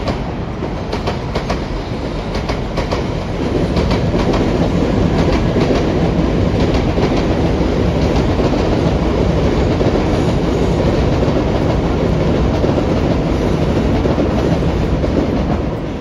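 A train passing close by, its wheels clicking over the rail joints; the rumble grows louder about three and a half seconds in and eases off near the end.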